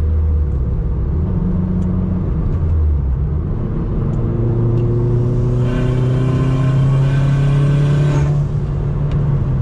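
Dodge Caliber SRT-4's big-turbo 2.4-litre four-cylinder pulling under acceleration through a catless downpipe, its exhaust cutout blocked off. The engine note climbs, and from about six seconds in a rising turbo whine joins it, then eases off just past eight seconds.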